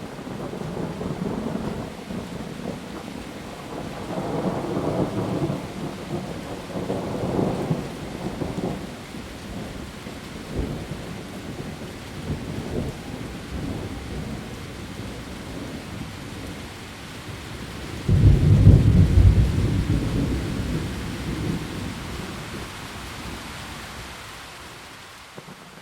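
Heavy rain falling steadily with thunder: low rumbles swell about four to eight seconds in, then a sudden loud thunderclap comes about eighteen seconds in and rumbles away over the following seconds.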